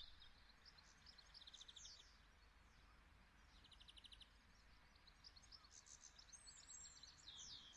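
Faint songbirds singing, several short chirps overlapping, one bird repeating a short rapid trill every couple of seconds, over a low steady hum.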